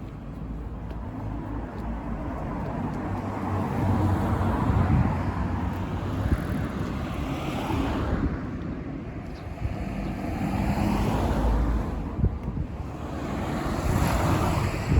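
Wind gusting on the microphone, swelling and easing every few seconds, over a low steady vehicle hum.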